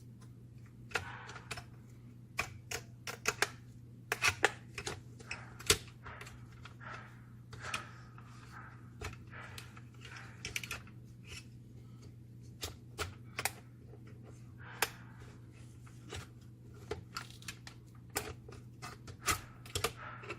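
Irregular clicks and taps of small hard parts being handled and fitted during hand work on a copier fuser unit, over a steady low hum.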